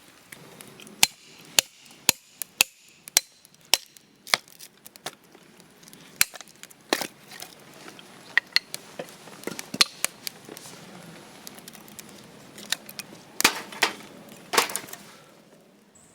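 A series of sharp chopping knocks: evenly paced at about two a second for the first few seconds, then irregular, with a few louder strikes near the end.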